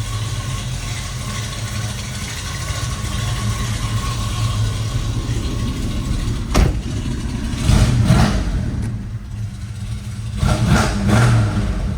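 Crate 350 V8 of a 1980 Chevrolet El Camino running steadily at idle, heard from inside the cab with the air conditioning blowing. A sharp click comes about six and a half seconds in, and brief louder knocks come near eight and eleven seconds.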